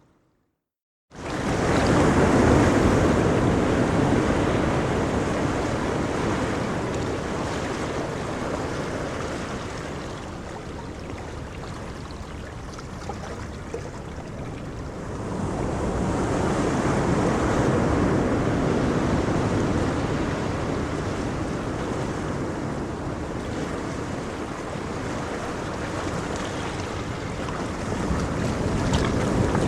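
Ocean waves breaking on a shore and washing back, a continuous surf roar that swells and eases in slow surges, with some wind on the microphone. The sound starts abruptly after a silent gap of about a second.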